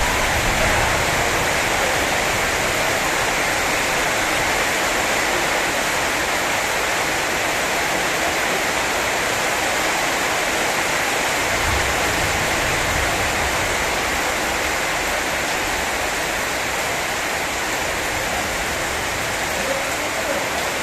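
Heavy rain pouring down steadily in a rainstorm, a dense even hiss.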